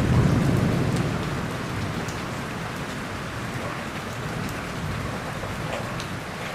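Heavy rain falling steadily, with the low rumble of thunder dying away in the first couple of seconds and scattered drops ticking against a surface.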